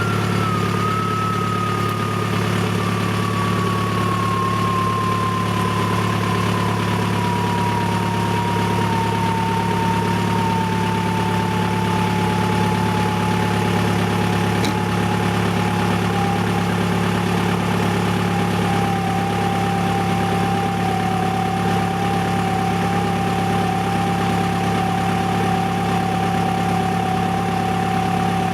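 2000 VW Jetta TDI's 1.9-litre four-cylinder turbodiesel idling steadily just after a cold start, heard through a muffler-deleted exhaust. A high whine over the idle slowly falls in pitch.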